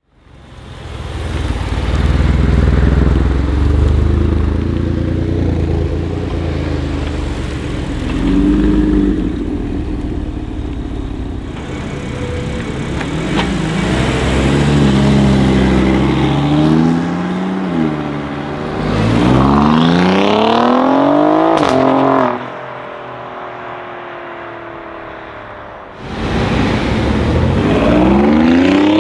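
Sports car engines accelerating hard in several passes, their revs rising and falling with gear changes. About two-thirds through the revs climb in a steep rising sweep and cut off abruptly, a quieter stretch follows, and near the end an Alfa Romeo Giulia Quadrifoglio's twin-turbo V6 accelerates away.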